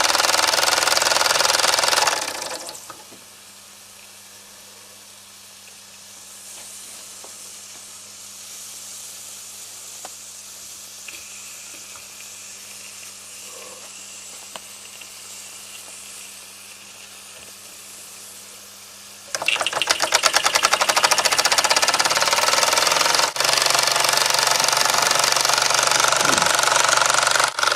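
Mamod model steam engine running fast with a rapid beat and steam hiss. It falls away two to three seconds in, leaving a faint steady hum, then starts up again suddenly about 19 seconds in and settles into loud, steady running.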